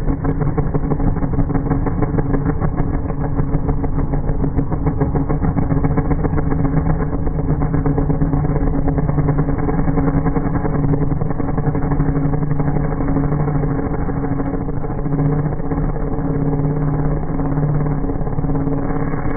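Artificial 'space sound': a loud, steady, low engine-like drone with a fast rattling pulse, held unchanged.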